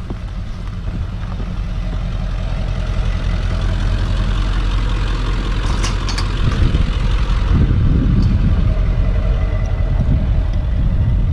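A truck's engine running as it drives, with steady road and wind noise, growing louder over the first few seconds.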